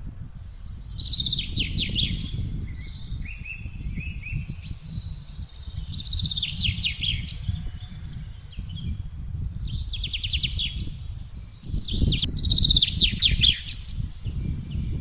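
Songbirds singing short, fast trilled phrases every few seconds over gusting wind that rumbles low, the wind swelling strongest a little after the midpoint and again near the end.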